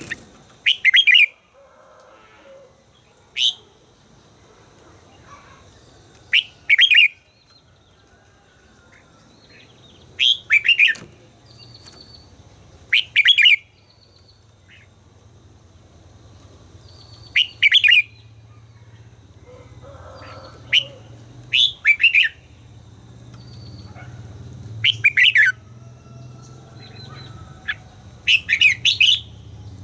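Red-whiskered bulbul singing short, loud, bright phrases every few seconds, about ten in all. A faint low hum grows in the background through the second half.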